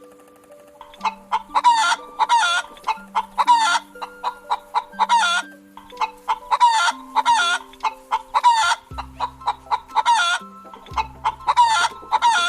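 Chicken clucking over and over in quick bursts of short calls, over simple backing music with held notes and a low bass.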